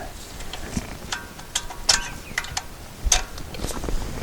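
Light metallic clicks and taps as a greased anti-rattle spring clip is worked into place on a front brake caliper, with a louder knock about three seconds in.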